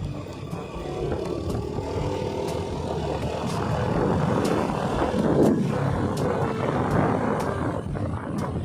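Motorcycle running at road speed, engine noise mixed with wind rushing over the microphone, growing a little louder through the middle.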